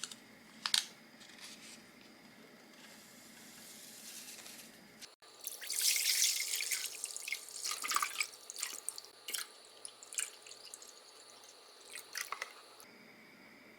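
Liquid pouring and splashing into a container, with light clicks and knocks of handling; likely milk being poured into a rice cooker pot. A sharp cut comes about five seconds in, and the densest splashing follows for a few seconds.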